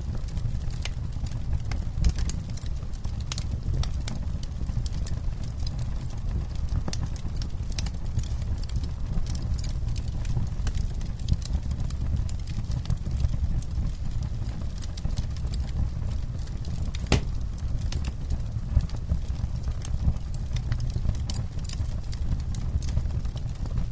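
Campfire burning, wood crackling with frequent irregular sharp pops over a steady low rumble; one louder pop about seventeen seconds in.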